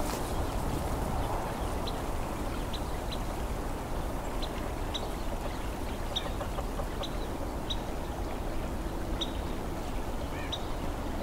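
Carolina wren giving short, high single peep calls, repeated at irregular intervals over a steady low background noise.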